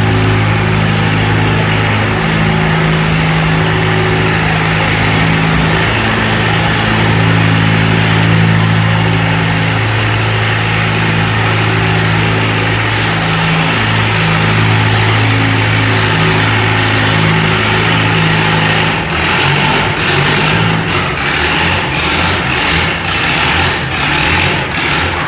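Antique farm tractor engine running hard under load at a steady, low note during a pull. Near the end the note breaks up into uneven, choppy running with sharp cracks.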